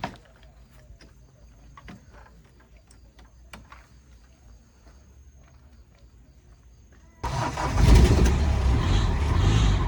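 A few light clicks over quiet, then about seven seconds in the 2008 Ford Ranger's engine starts abruptly and keeps running.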